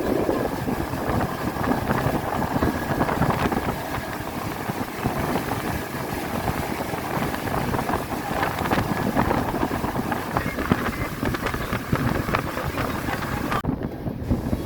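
Wind buffeting the microphone: a steady rumbling rush with crackles and an uneven level.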